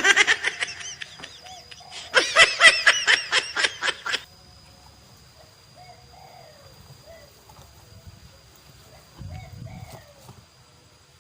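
A bird giving a loud, rapid chattering call of quickly repeated notes in two bursts, the second lasting about two seconds, with fainter bird calls further off afterwards.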